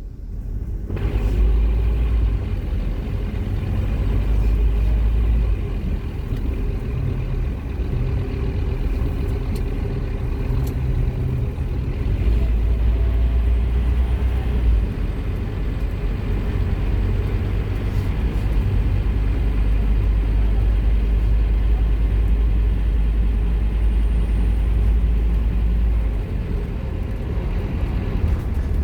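Scania K230UB Omnilink bus's five-cylinder diesel engine running and pulling, a continuous low drone that shifts in tone several times, as with changes in engine speed.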